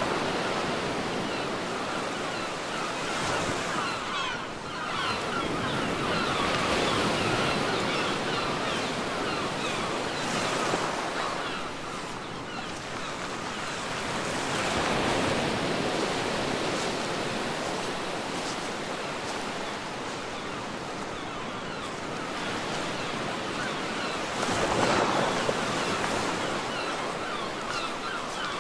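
Ocean surf on a beach: waves breaking and washing in, the rushing hiss swelling and fading again every several seconds.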